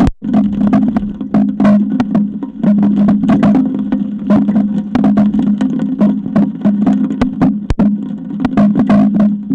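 Strong wind buffeting an eagle nest camera, with a steady low drone and a rapid, irregular run of knocks and rattles as gusts shake the camera and nest.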